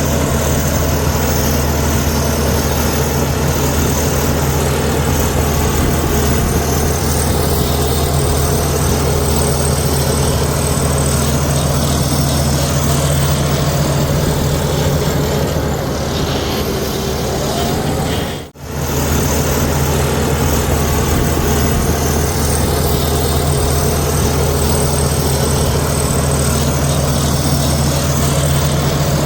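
Heavy diesel engine of a bulldozer running steadily at a constant pitch, with one sudden momentary cut-out about two-thirds of the way through.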